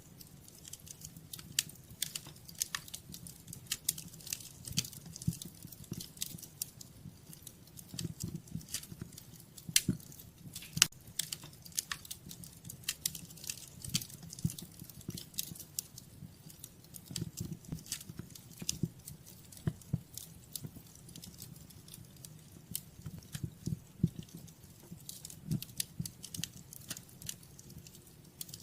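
Wood fire crackling steadily, with irregular sharp pops and snaps over a low, even rumble of burning.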